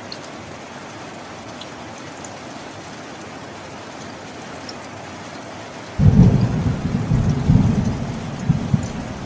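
Steady rain falling, with scattered drips. About six seconds in, a loud clap of thunder breaks suddenly into a deep rolling rumble that swells and ebbs.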